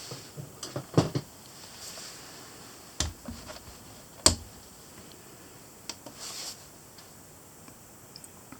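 Scattered clicks and knocks of a hatchet being handled and set on a weighing scale, with sharp knocks about one, three and four seconds in, the one at four seconds the loudest.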